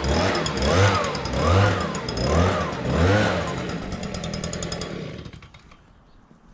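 Small gasoline engine surging up and down in speed about once a second, then winding down and stopping about five seconds in.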